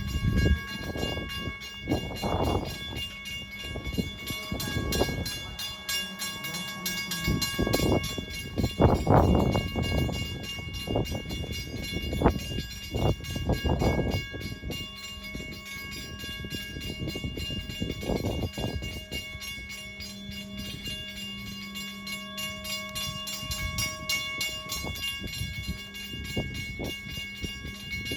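A Long Island Rail Road M7 electric train standing at a station platform, giving off a steady electrical hum with several high steady tones. Irregular rumbles and knocks come and go over it, heaviest in the first half.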